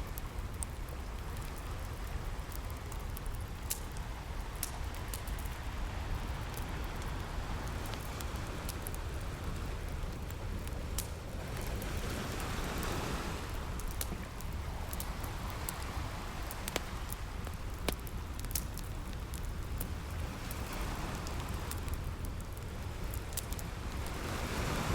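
Ocean waves washing in, swelling roughly every twelve seconds over a steady low rumble, with the scattered sharp pops and crackles of a campfire.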